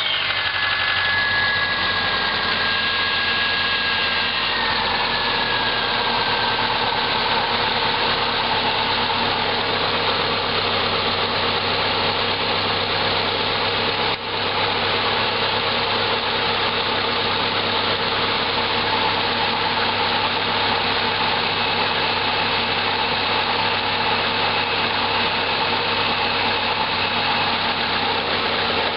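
Subaru Impreza's flat-four engine idling steadily just after being started. A thin high whine in the first few seconds drops slightly in pitch and fades.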